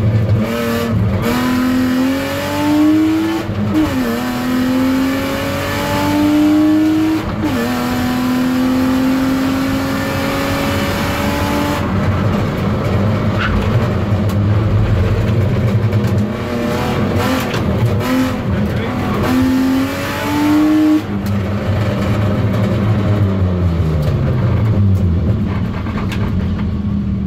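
BMW E36 320i's straight-six engine heard from inside the cabin at full throttle, revving up through the gears with the pitch dropping at each upshift about one, four and seven seconds in, then running hard through the corners. About twenty seconds in the throttle comes off and near the end the engine note falls away as the car slows.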